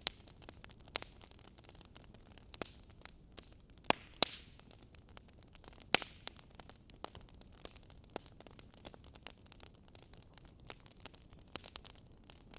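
Wood fire crackling in a fireplace: irregular sharp pops and snaps over a faint steady hiss, with a few louder pops around the middle.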